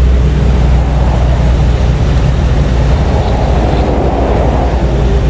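Loud, steady low vehicle rumble, with a broad swell about three to four seconds in.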